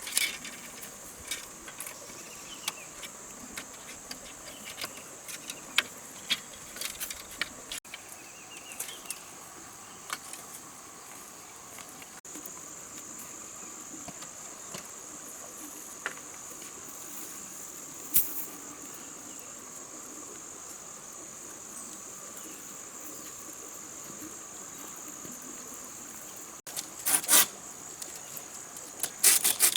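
Steady, high-pitched chorus of insects, such as crickets, in rainforest, with scattered clicks and knocks over it and a louder cluster of knocks near the end.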